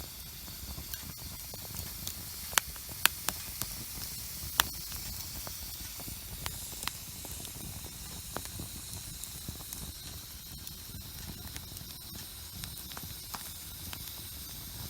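Wood campfire burning with a steady hiss and irregular crackles and sharp pops, the loudest pops clustered a few seconds in.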